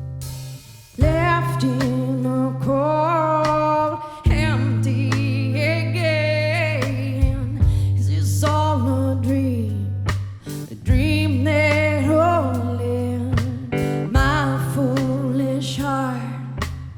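Live song: a solo voice singing a wavering melody with vibrato over guitar chords, a new chord struck roughly every three seconds.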